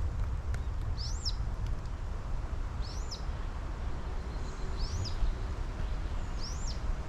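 A small bird calling four times, each a short, high note that rises and falls, about every two seconds, over a steady low rumble.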